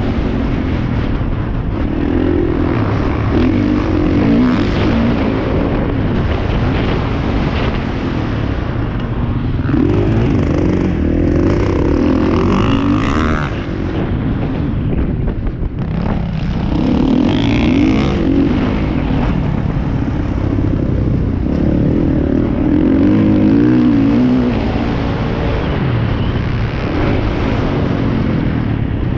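Motocross dirt bike engines running hard, the revs climbing and falling in repeated waves every few seconds.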